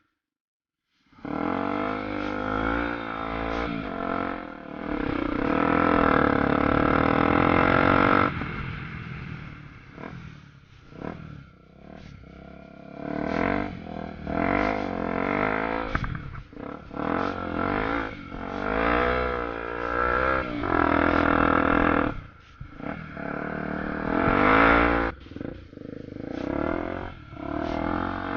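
Honda XR250 Tornado's single-cylinder four-stroke engine running under way, its pitch rising and dropping back several times as the throttle is opened and eased off. The sound cuts in after about a second of silence.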